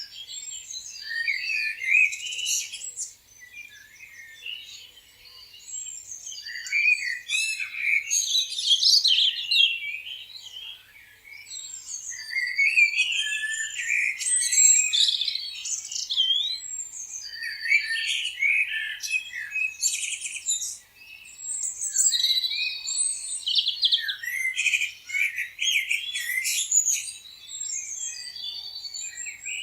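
A chorus of several songbirds chirping and singing at once, with overlapping short chirps, rapid trills and brief whistled notes, dense and continuous with small lulls.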